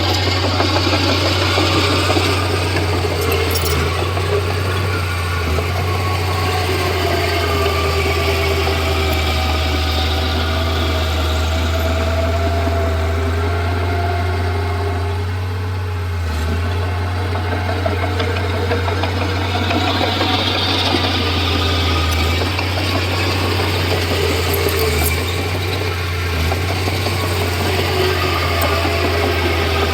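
Komatsu D31P bulldozer's diesel engine running steadily, a deep drone with wavering higher tones above it, easing briefly about halfway through.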